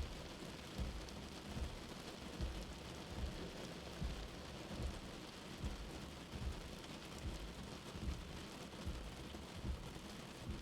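Steady rain falling, with a soft low heartbeat thumping evenly underneath about every 0.8 seconds.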